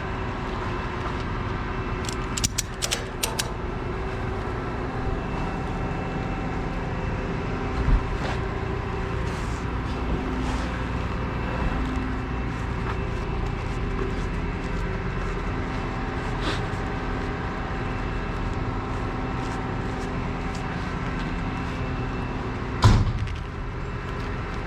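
An engine running steadily, with a few sharp metallic clicks a couple of seconds in and one heavy thump near the end.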